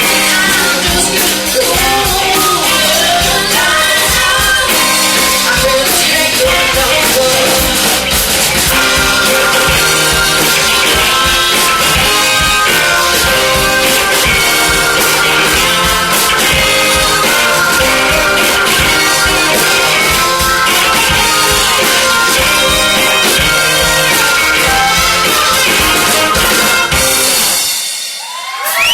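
Live band playing an up-tempo number with drums and singing. Near the end the music briefly drops away and then comes back in with a rising note.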